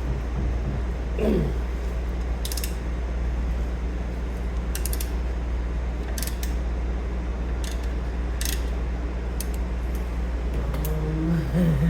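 Light metallic clicks and clinks of hand tools, one every second or so, over a steady low hum, with a brief falling creak about a second in.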